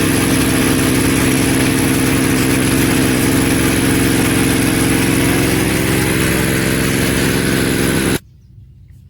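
Small engine driving a farm water pump, running steadily with an even hum, then cutting off suddenly about eight seconds in.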